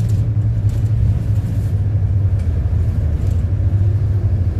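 City bus running, heard from inside the cabin: a steady low engine and road rumble, with a few faint brief rattles or hisses.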